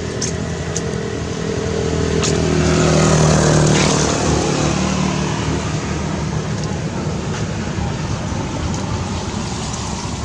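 A motor vehicle's engine passing by. It grows louder to a peak about three seconds in, then fades, and its pitch drops slightly as it goes.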